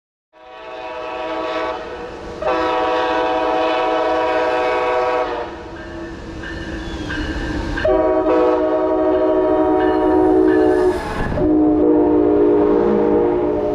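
Locomotive air horn sounding several long blasts, a multi-note chord, with the rumble of the approaching train underneath. It starts abruptly about half a second in.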